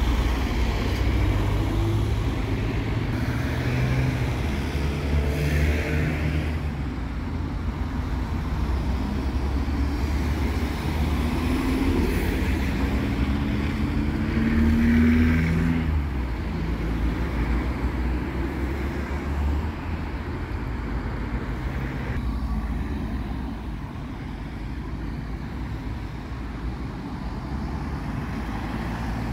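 Road traffic: cars and heavier vehicles driving past over a steady low rumble. Their engine notes rise and fall, with one climbing clearly in pitch as it pulls away about halfway through.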